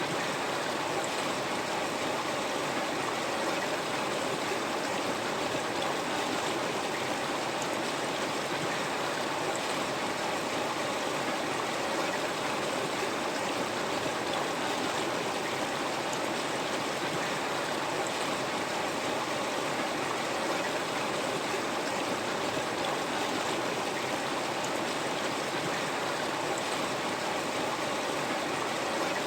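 River water flowing over rocks in a steady, even rush with no breaks.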